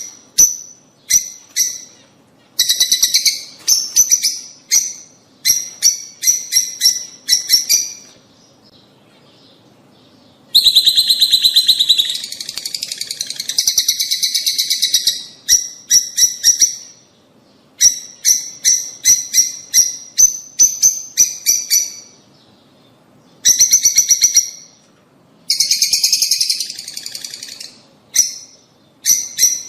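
Lovebirds calling: runs of sharp, high, repeated chirps broken by short pauses, with two longer spells of dense, continuous chattering, one about a third of the way in and one near the end.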